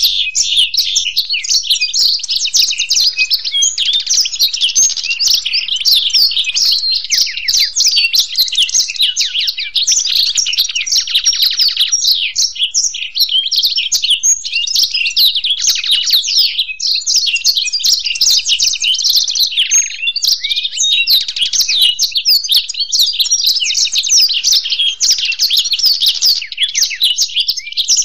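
A black-throated canary and a European goldfinch singing nonstop together: a dense, unbroken stream of rapid twitters and trills.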